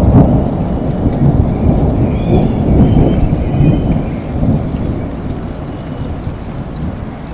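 Rolling thunder rumbling low over steady rain, the rumble dying away through the second half.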